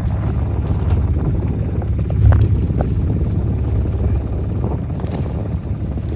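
Steady low rumble of a small boat under way on open water, with wind buffeting the microphone and a few faint knocks.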